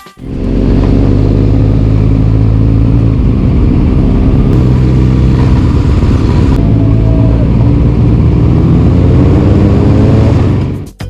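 Honda CL500's parallel-twin engine running under way at a fairly steady pitch. It cuts in suddenly and fades out near the end.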